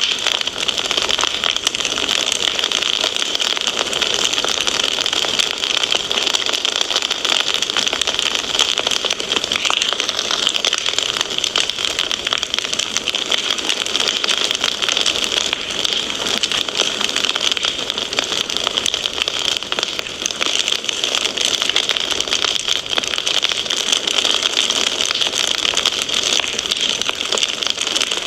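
Wood fire crackling steadily: a dense, unbroken stream of small pops and snaps over a hiss.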